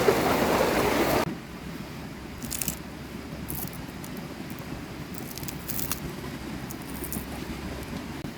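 Rushing river water that cuts off abruptly about a second in. After it comes a quieter low rumble with a few faint, scattered crackles.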